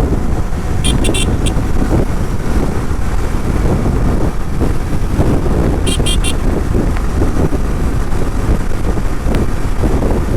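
Steady wind rush and road noise on a moving motorcycle, with two quick bursts of three or four short, high-pitched horn beeps, one about a second in and one about six seconds in.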